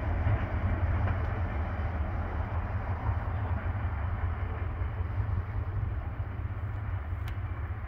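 Freight train's cars rolling away down the track: a steady low rumble with rail noise, slowly fading.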